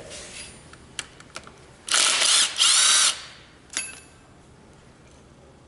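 A handheld power tool runs in two short spurts about two seconds in, the second with a rising whine, with a few sharp metallic clicks before and one after.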